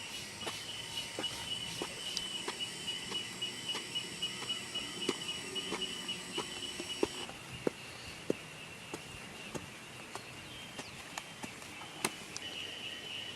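Insects buzzing steadily in woodland. The buzzing breaks off about seven seconds in and starts again near the end. Footsteps on the forest floor run through it, about two to three a second at first and then fewer and more spread out.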